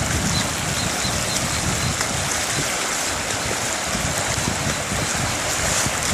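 Floodwater flowing, a steady rushing hiss of moving water.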